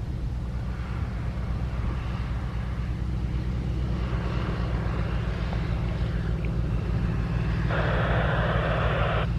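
Steady low rumble of aircraft engine noise, slowly growing louder. Near the end, a burst of radio static hiss from the airband radio cuts in for about a second and a half, an open transmission with no words, then stops abruptly.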